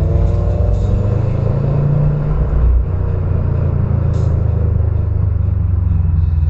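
Car engine and exhaust rumbling steadily at low speed.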